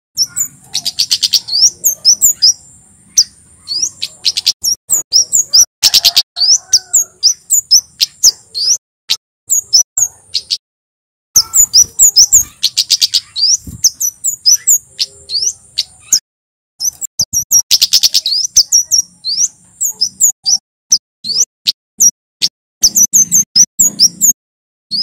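Male kemade jawa, a flowerpecker, singing loud runs of rapid, sharp, high-pitched chirps in long bursts broken by brief pauses.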